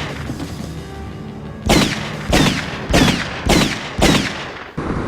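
Movie soundtrack gunshots: five shots at about two-thirds of a second apart, each ringing out, over a background film score. Near the end the clip cuts off abruptly to steady wind and road noise.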